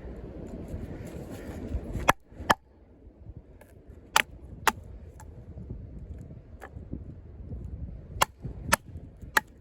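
Batoning: a baton striking the spine of a 6 mm thick Sleipner steel combat knife to drive it through wood to split it, giving about eight sharp cracks, several in quick pairs about half a second apart, over a low rumble.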